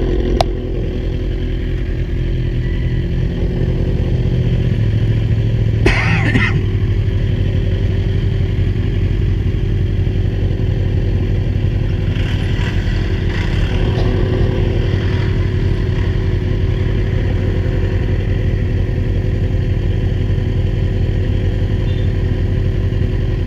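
Kawasaki Z1000's inline-four engine running at a steady cruise during a ride, its note stepping lower about five seconds in. A short rush of noise comes about six seconds in.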